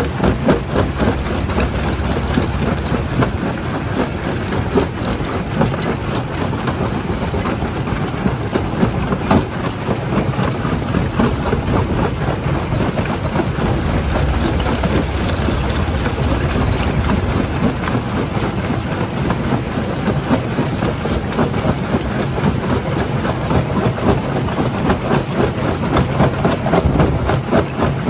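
Primary jaw crusher running and crushing rock: a steady heavy machine rumble with dense, constant clattering and cracking of stone.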